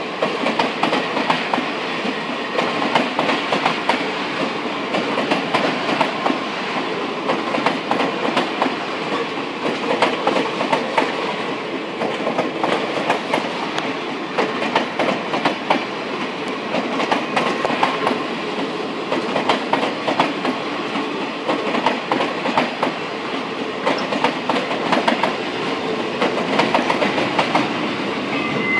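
The circus train's cars rolling past at speed, wheels clicking steadily over the rail joints, with now and then a faint wheel squeal.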